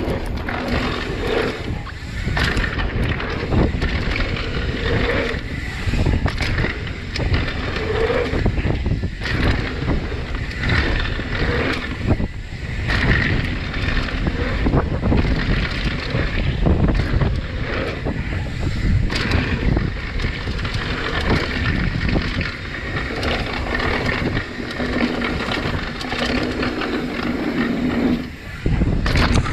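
Wind buffeting the microphone and knobby tyres rolling over a dirt trail as a mountain bike descends, with frequent knocks and rattles from the bike over bumps.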